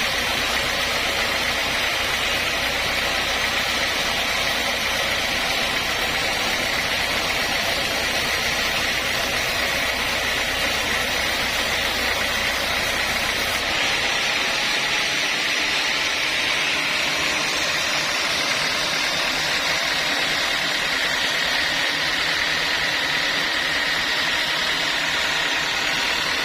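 Sawmill machinery running steadily: a motor-driven saw with a steady high whine over its noise. About halfway through, the low rumble drops away and the whine carries on.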